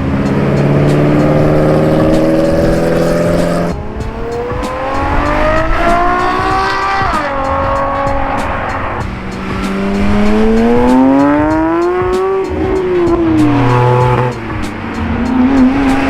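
Sports car engines accelerating hard as cars drive off. A steady engine note is followed by several long climbs in pitch, each ending in a sharp drop.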